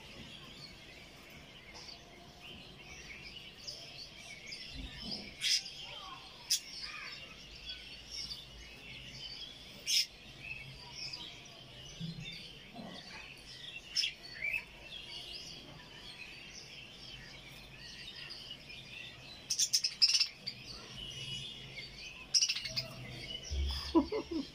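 Budgerigars chattering and warbling continuously, with sharp, short chirps standing out several times.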